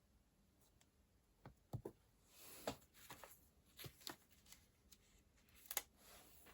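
Paper and stationery being handled: after a second and a half of near quiet, a scattered run of light taps and clicks with a brief papery rustle, and one sharper click near the end.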